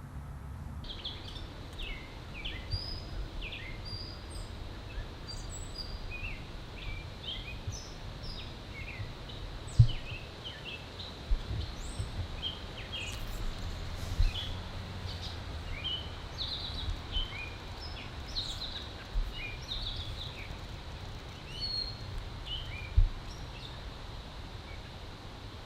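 Backyard songbirds chirping and calling, many short high notes overlapping, over a low outdoor rumble. Two sharp low thumps stand out, about ten seconds in and again near the end.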